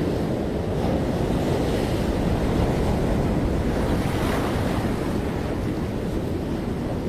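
Ocean surf washing on a beach, a steady low rushing with one wave surging brighter about four seconds in, and wind rumbling on the microphone.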